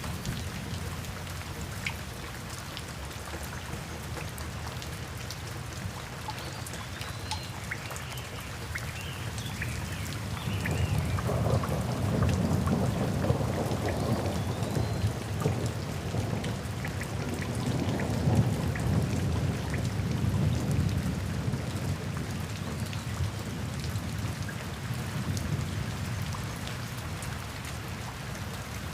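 Steady rain with individual drops ticking close by. A long low rumble of thunder swells about ten seconds in and fades away over the next ten seconds or so.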